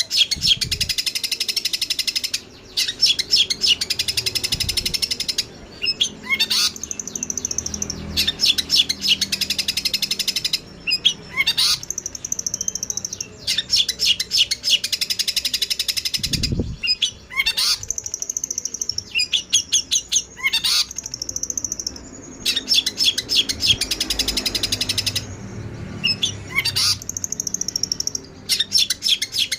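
Songbird masteran recording: fast trains of sharp, high chirps and chatter in bursts of a few seconds with short breaks between them.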